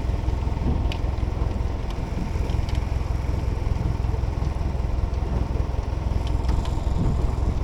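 A boat engine running steadily at idle, a low continuous rumble, with a few faint clicks over it.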